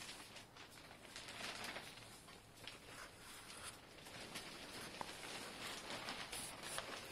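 Faint rustling and scattered light clicks and taps, with no engine running.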